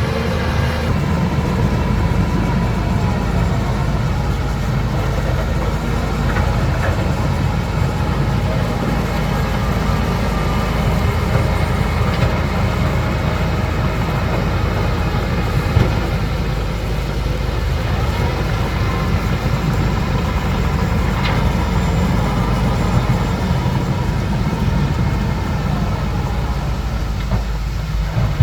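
Bulldozer's diesel engine running steadily with a deep rumble, with one sharp knock about sixteen seconds in.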